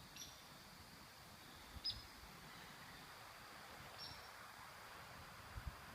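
Faint, short, high-pitched animal chirps, one every two seconds or so, over quiet outdoor ambience, with a few soft low thuds.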